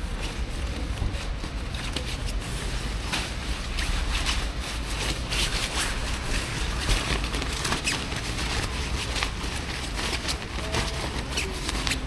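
Wind buffeting the microphone during a ride in the rain, a steady low rumble with many sharp crackles of raindrops striking it.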